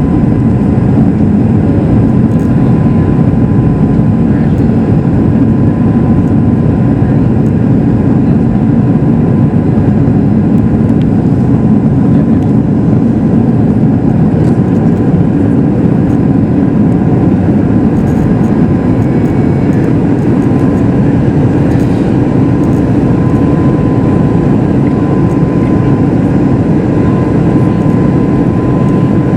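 Steady cabin roar of a Boeing 737 MAX 8 in flight, the CFM LEAP-1B engines and rushing airflow making a loud, even, deep noise, with a faint thin tone held steadily above it.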